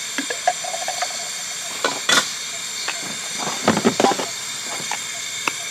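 Gas canister camping stove burner hissing steadily, now burning properly. A few short knocks and clinks, one about two seconds in and a cluster around four seconds in.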